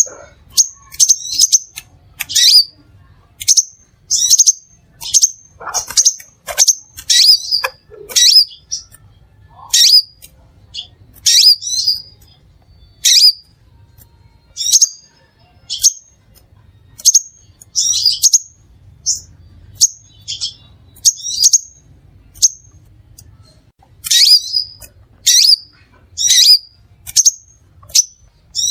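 Crimson sunbird calling: a steady series of short, sharp, high chirps, one or two a second, some coming in quick clusters.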